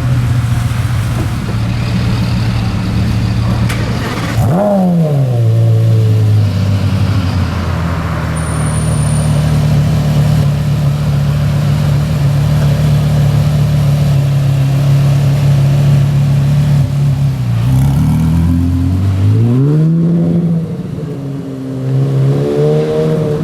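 Porsche Carrera GT's 5.7-litre naturally aspirated V10 with a straight-through exhaust. Its pitch swings sharply up and down about four and a half seconds in, then it runs at a steady pitch for a long stretch. Near the end it dips and climbs again as the engine revs up.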